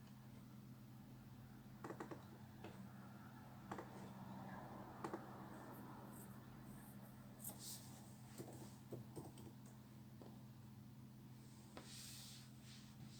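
Quiet room with a steady low hum and scattered light clicks and taps, with a couple of brief rustles.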